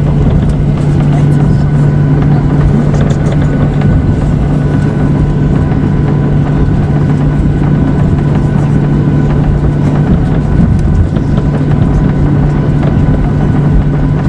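Jet airliner engines and airflow heard from inside the passenger cabin: a loud, steady drone with a strong low hum.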